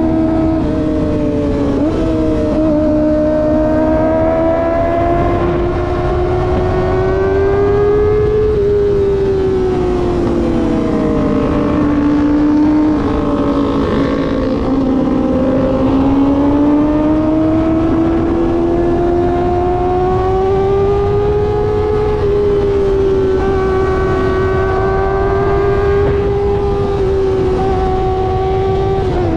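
Kawasaki ZX25R's 250 cc inline-four running at cruising revs, heard from on the bike. Its high-pitched note rises and falls slowly with the throttle, dips briefly about two seconds in and again near the end, and runs over a low rushing noise.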